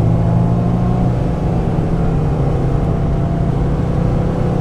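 1995 Mazda Miata's 1.8-litre four-cylinder engine running steadily on track, its note easing slightly about a second in.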